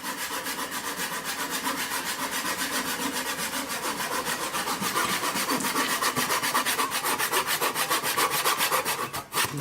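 Hand saw cutting through a piece of firewood in quick, even back-and-forth strokes, stopping about nine seconds in.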